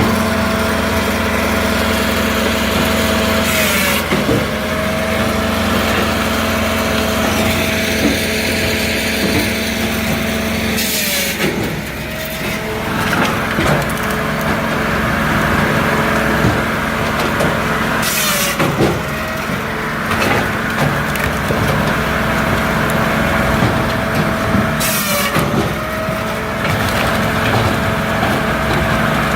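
Multitek 1620SS firewood processor running under its diesel engine, with a steady engine drone and a hydraulic whine. Four times, about every seven seconds, a sharp clack and the cracking of wood come as a log is cut and split, and the whine briefly dips at each stroke.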